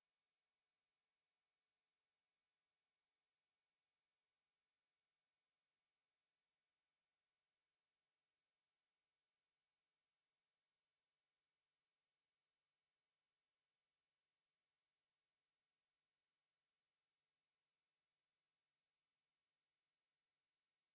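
A pure, steady 7632 Hz sine-wave test tone, a single high-pitched whistle-like tone held at an even level throughout.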